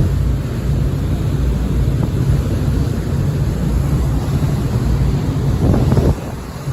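Strong wind buffeting the microphone over the steady low drone of a fast ferry under way. A louder gust comes near the end and then drops off suddenly.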